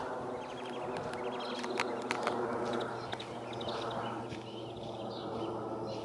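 Several small birds chirping and calling, with quick trilled runs of notes and sharp high chips, over a steady low hum.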